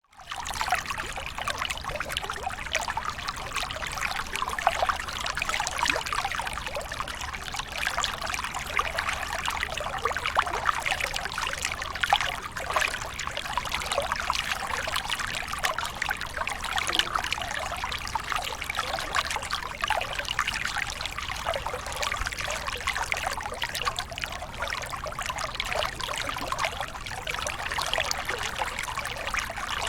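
Waterfall: water pouring and splashing in a steady rush, full of small droplet splashes. It drops out for a split second right at the start.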